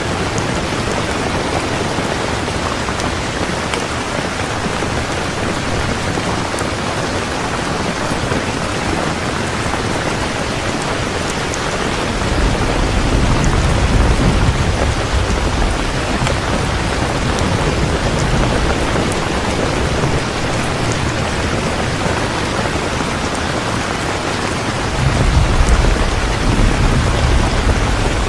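Heavy rain falling steadily, with two low rolls of thunder: one rumbling for several seconds about halfway through, and a shorter one near the end.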